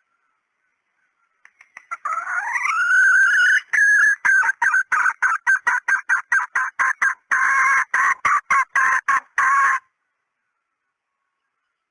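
Junglefowl hen calling: a rising drawn-out note, then a fast run of short clucks at about four a second, with a brief break before a last denser run that stops abruptly. This is the hen's call as used to lure junglefowl.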